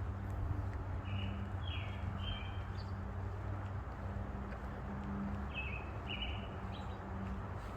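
A songbird calling in two short phrases of three quick notes each, one phrase about a second in and another about halfway through, over a steady low background rumble.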